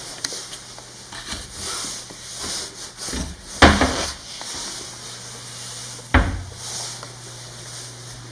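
Sink cabinet door or drawer being handled: light rubbing and clicks, then two sharp knocks about two and a half seconds apart, the first the louder, as it is shut.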